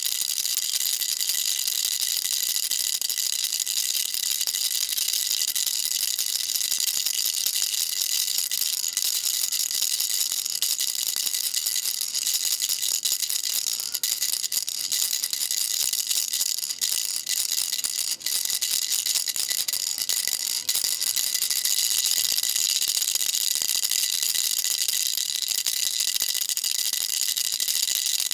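Baby rattle shaken continuously, a dense, steady high-pitched rattling of small beads with a few brief dips in the middle.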